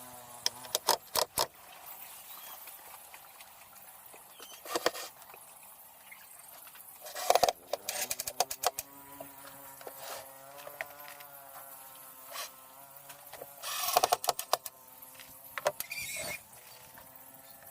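Scattered sharp knocks and taps of woodworking, loudest in clusters near the start, about seven seconds in and about fourteen seconds in, over a faint steady mechanical hum.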